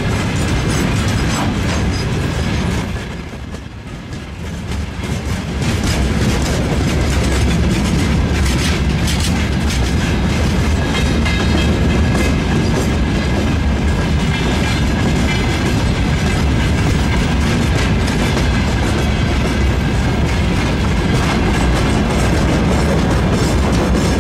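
Freight train wagons rolling past in a steady rumble, the wheels clattering over rail joints. The sound dips briefly about three seconds in.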